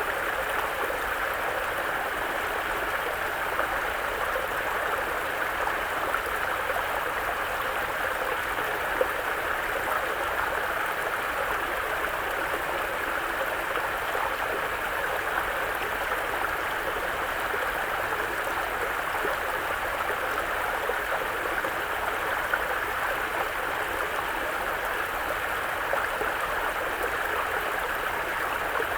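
Mountain brook running over rocks: a steady murmur of flowing water with small splashes.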